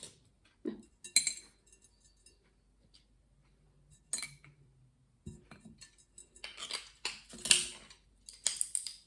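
Scattered hard clicks and knocks of walnuts and broken shells being cracked and handled in a pot. The clicks are sparse at first and come thicker in the second half.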